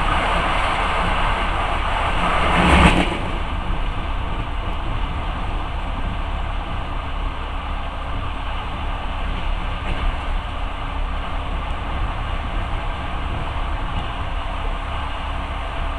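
Steady rumble and hiss of a moving passenger train, heard from inside the carriage, with a brief louder rush of noise about two and a half seconds in.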